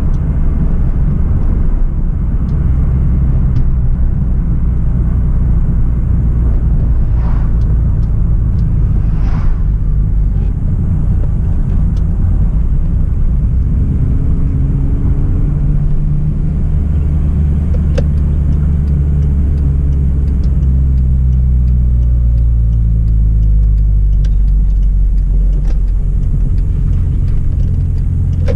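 Hyundai Tiburon's 2.0-litre petrol four-cylinder engine and road noise while driving: a steady low drone whose engine note shifts up and down in pitch in the second half as the speed changes.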